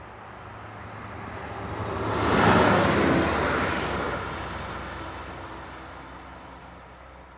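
Regional diesel multiple unit SA139-031 passing close by at speed. The rush of wheels and running gear swells to a peak about two and a half seconds in, then fades gradually as it draws away over a steady low engine hum.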